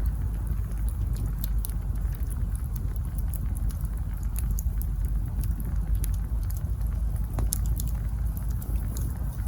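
Campfire of burning wood logs crackling: irregular small sharp pops and snaps, one a little stronger about seven seconds in, over a steady low rumble.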